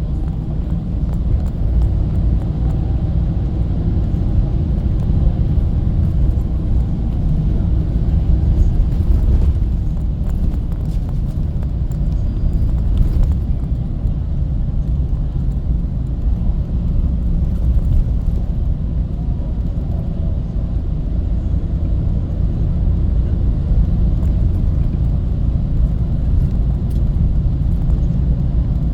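Steady low rumble of engine and road noise from a moving bus, heard from inside.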